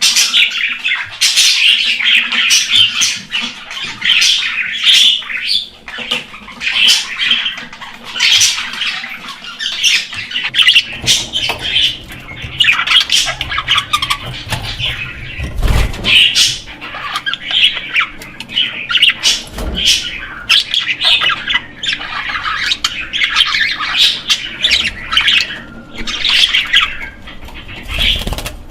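Pet budgerigars chattering and squawking in a steady stream of rapid, short, shrill calls. Two dull thumps sound past the middle, over a faint low hum in the second half.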